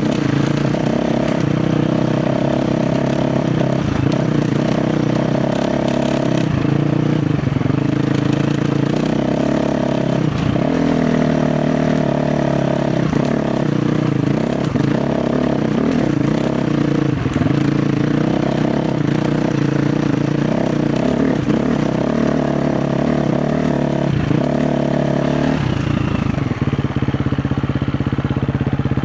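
KTM 350 XC-F four-stroke single-cylinder dirt bike engine running under constantly changing throttle, its pitch rising and falling. About 26 seconds in it settles into a steadier, lower note.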